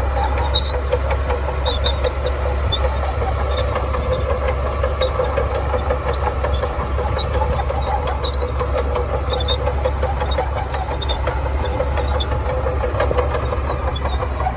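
Shantui DH17C2 bulldozer's diesel engine running steadily under load, a deep rumble with a busy mechanical rattle and scattered light metallic clicks from the machine working.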